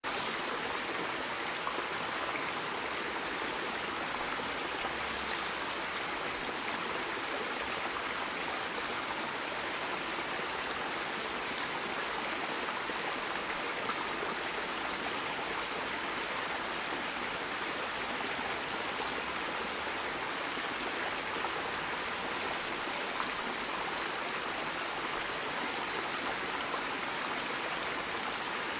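A stream of running water, a steady rushing babble with small splashes and drips.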